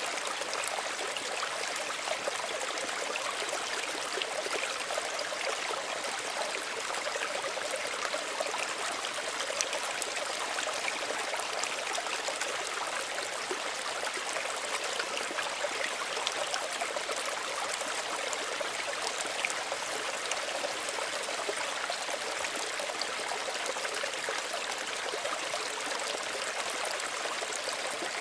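Small stream running steadily, water trickling and babbling over stones in a constant, even rush.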